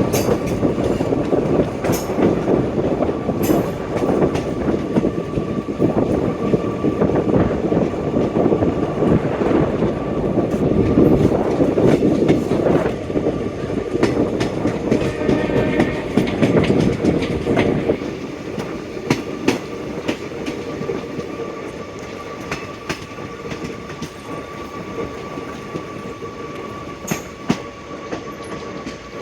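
Passenger train running on the track, heard on board: a dense rumble of wheels with rapid clicks over rail joints, growing quieter after about eighteen seconds.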